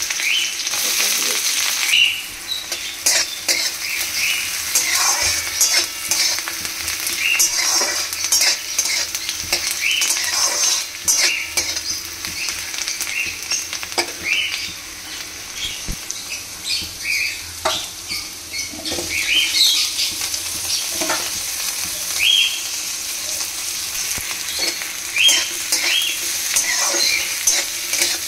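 Oil sizzling in a large aluminium kadai as chopped onion, garlic, chillies and nigella seeds fry, with a metal spatula scraping and stirring against the pan in short strokes every second or so.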